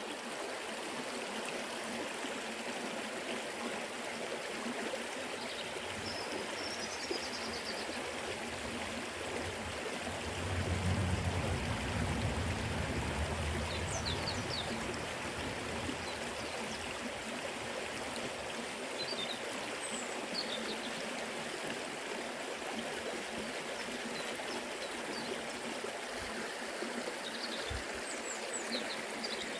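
Forest river flowing: a steady rush of running water, with a low rumble swelling about ten seconds in and faint high chirps now and then.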